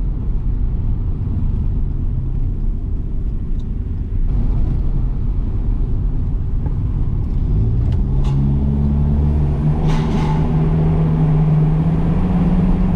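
1993 Saab 900 Turbo's 2.0-litre 16-valve turbocharged four-cylinder engine running on the move, over a low road rumble. About eight seconds in the engine note comes up and climbs slowly as the car pulls.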